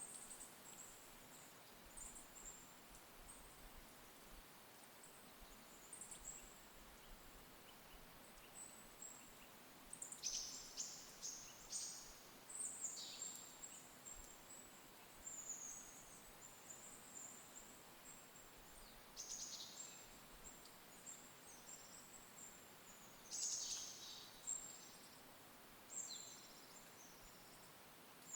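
Faint, high, thin songbird calls over quiet forest ambience: scattered short chirps, with several quick falling phrases a little after a third of the way in, about two-thirds in, and again near the end.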